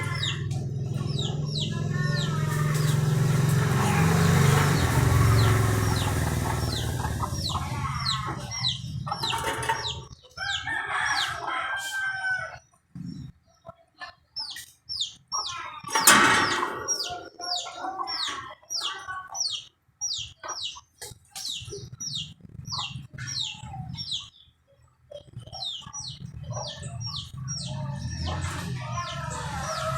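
Birds calling: many quick, high chirps falling in pitch, repeated throughout, with a louder call about halfway through and a low hum underneath during the first third.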